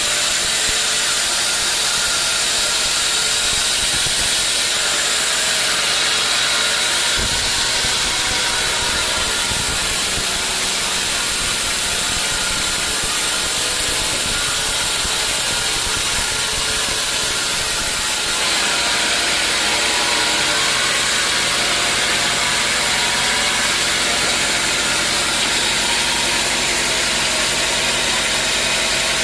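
Sawmill machinery running steadily, a loud hissing mechanical noise whose character changes about a quarter of the way in and again past the middle.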